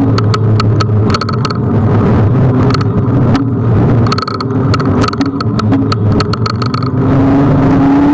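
Ride noise from a Kugoo G1 electric scooter under way: a heavy low rumble with a steady motor whine that climbs in pitch near the end as it speeds up. Many sharp rattling clicks, as from bumps in the riding surface, run through it.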